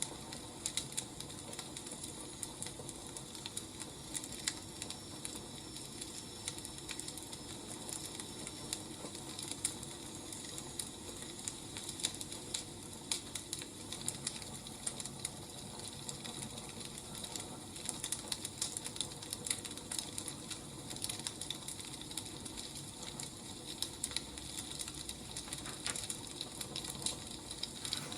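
Wood fire crackling steadily, with irregular sharp pops and snaps over a soft hiss of burning logs.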